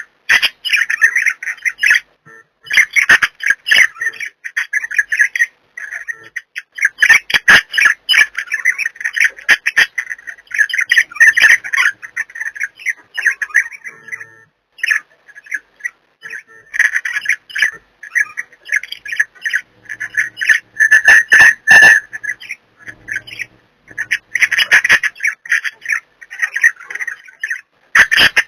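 Pet budgerigars chattering and warbling: a dense run of rapid chirps, clicks and squawks, broken by short pauses.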